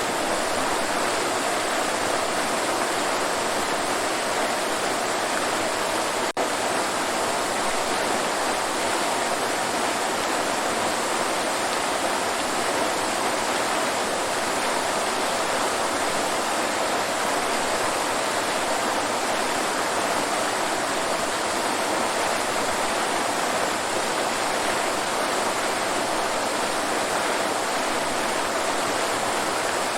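Waterfall: falling water rushing in a steady, even roar of noise, with a split-second dropout about six seconds in.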